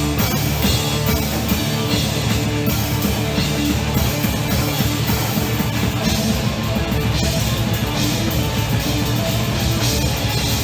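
Rock drum kit played in a fast, dense solo, with drum strokes packed closely together under a constant wash of cymbals.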